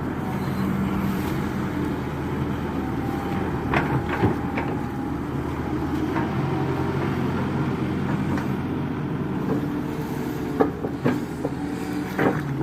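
Excavator's diesel engine running steadily under load, with a few sharp clanks: a couple about four seconds in and several more near the end.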